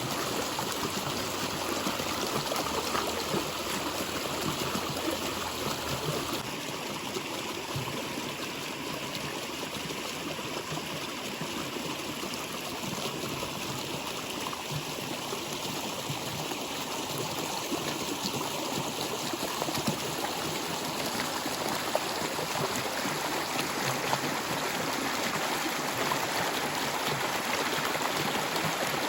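Water flowing steadily, a continuous rushing with trickling, a little softer for a stretch in the middle.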